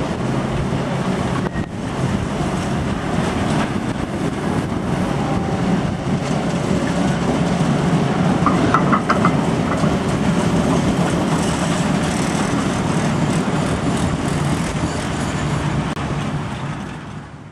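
A long rake of freight tank wagons rolling steadily past on the rails, a continuous rumble of wheels on track. A few brief high squeaks come about nine seconds in, and the sound fades out near the end.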